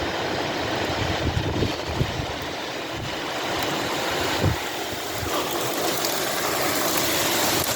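Heavy thunderstorm rain and wind, a steady rushing hiss that grows louder near the end. There are a couple of brief low thumps along the way.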